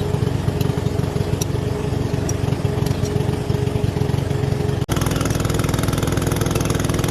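An engine running steadily at idle. The sound breaks off at a sharp cut about five seconds in, and a very similar running sound carries on after it.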